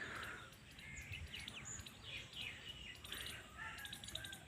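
Faint bird chirps and short whistled calls, scattered and soft.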